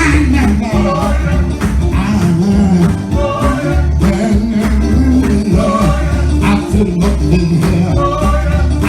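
Gospel music played by a band with a steady beat, bass and percussion, with a voice singing over it.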